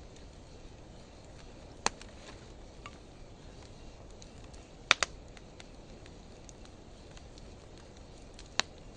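Wood fire of driftwood and dry hardwood burning with a low steady hiss, popping sharply about two seconds in, twice in quick succession around five seconds, and once more near the end, with faint small ticks in between.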